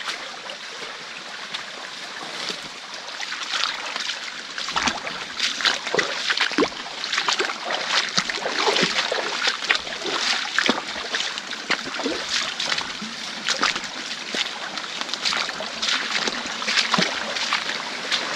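Stream water running with irregular splashes and sloshes, which grow busier and louder from about four seconds in.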